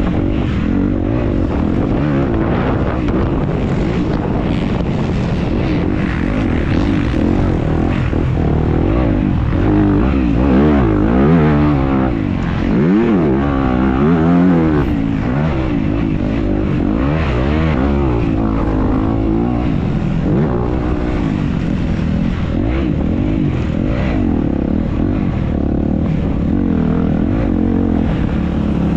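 Dirt bike engine running under race riding, its pitch rising and falling repeatedly as the throttle is worked, heard from the onboard camera.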